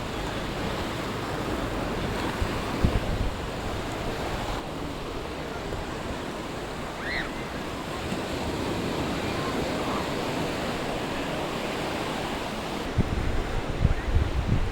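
Sea waves washing onto a beach, with wind buffeting the microphone in gusts near the end.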